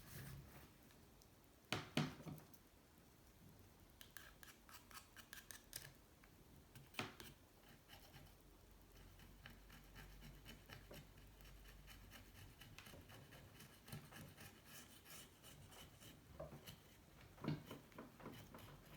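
Faint scraping and scratching strokes of a hand tool digging hardened gunk of oil, sand and saltwater corrosion out of an aluminium motorcycle engine case, with a few sharper knocks about two seconds in, about seven seconds in and near the end.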